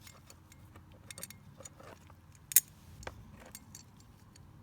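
Light metallic clicks and clinks of small carburetor parts being handled, with one sharper click about two and a half seconds in.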